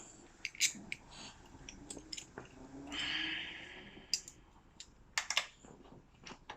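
Light clicks and knocks of hands and wrenches handling the plastic front caster wheel of a folding hand truck, with a brief rasping whirr about three seconds in.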